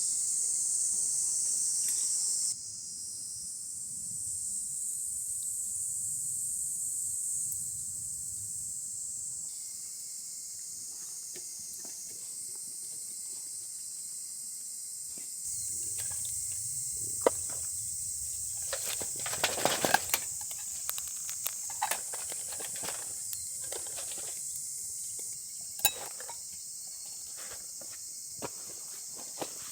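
Insects chirring steadily in a high band, with sharp clicks and knocks scattered through the second half, thickest about two-thirds of the way in.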